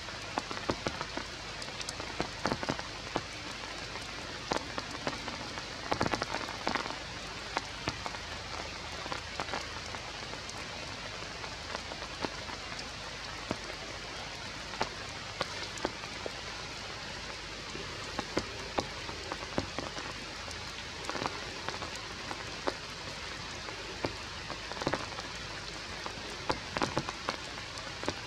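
Steady rain falling through forest foliage, with frequent sharp drips of drops striking wet leaves, coming in small clusters now and then.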